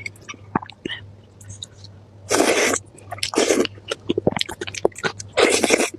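Close-miked eating sounds: chewing with many small wet mouth clicks, broken by three louder, half-second noisy bursts of biting or slurping, about two and a half, three and a half and five and a half seconds in.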